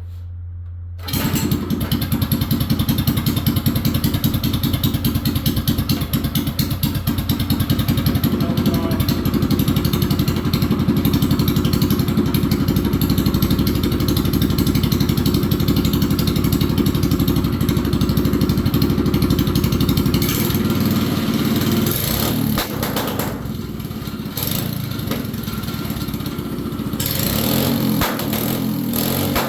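A minibike's 196cc single-cylinder engine starting up about a second in and then running, with its sound shifting a few times near the end.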